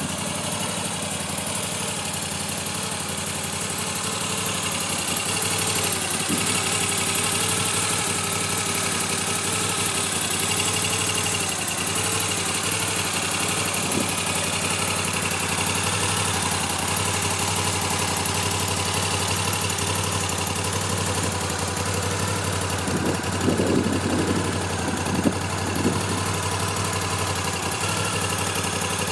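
Moto Guzzi V7 III Stone's air-cooled transverse V-twin idling steadily, with a few short louder bursts near the end.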